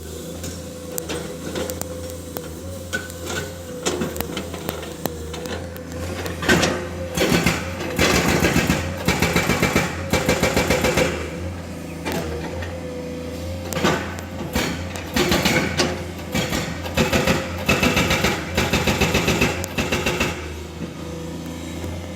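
Excavator's diesel engine running steadily, with two spells of rapid, rhythmic clattering impacts as it works on rock, each lasting a few seconds and louder than the engine.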